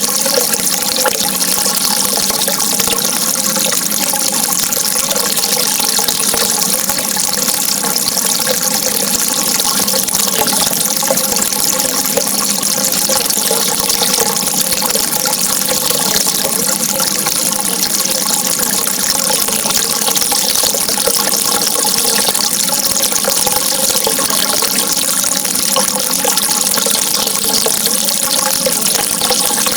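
Running water: a steady, unbroken rush.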